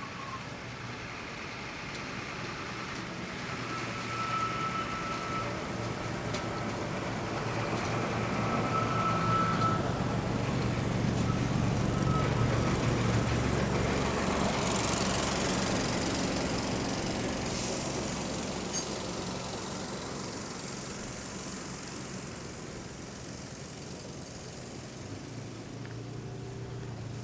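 Rail weed-spraying vehicle passing slowly on the track: its engine hum grows louder to a peak about halfway through, then fades as it moves away.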